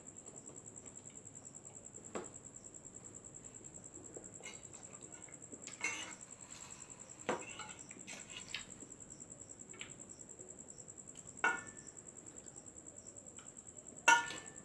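Someone eating on an eating show: a handful of short sharp smacks and clicks, spaced a few seconds apart, the loudest near the end. Under them runs a faint, steady, high-pitched pulsing tone.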